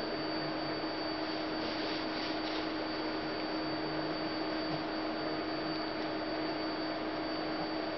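Steady electrical hum over a constant hiss, with no distinct events: room tone.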